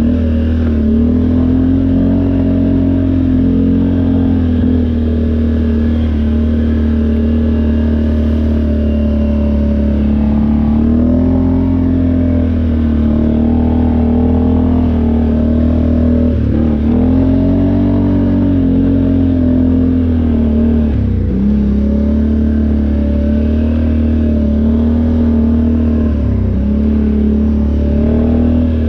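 ATV engine running, its pitch rising and falling with the throttle throughout, with a couple of quick drops in revs about two-thirds of the way through.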